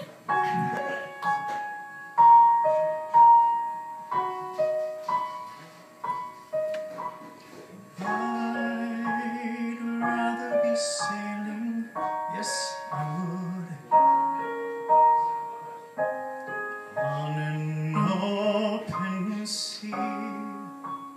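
Piano accompaniment playing the introduction to a musical-theatre song, with single decaying notes at first. Fuller, sustained lower tones join about eight seconds in.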